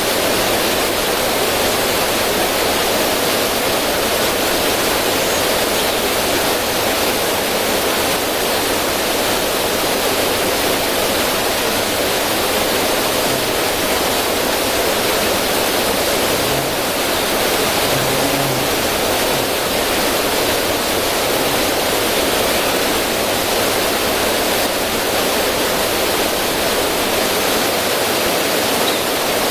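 River water running over stones and splashing down a small cascade: a steady, unbroken rush.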